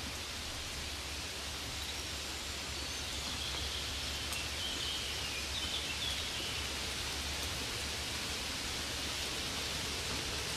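Rain falling steadily, an even hiss with no breaks, with a few faint high chirps about halfway through.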